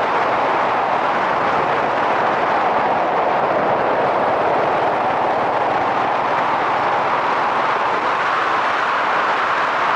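A steady rush of riding noise from a Yamaha SRX400 motorcycle on the move: its single-cylinder engine running under wind noise on a helmet-mounted microphone.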